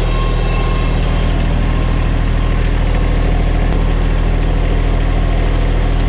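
New Holland Workmaster 25S compact tractor's diesel engine running steadily at a constant speed.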